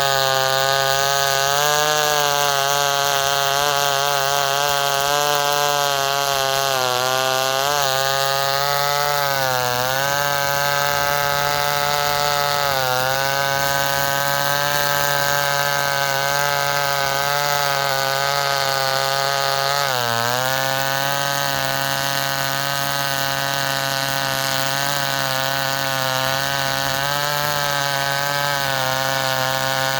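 Homelite two-stroke chainsaw held at high revs while cutting dry white oak. Its steady high-pitched whine sags and recovers in pitch a few times as the chain is loaded in the cut.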